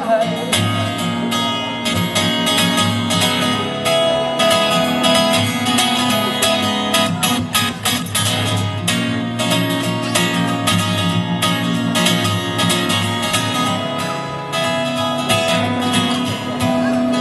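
Live acoustic guitar strummed in a steady rhythm, an instrumental break between verses of a song with no singing.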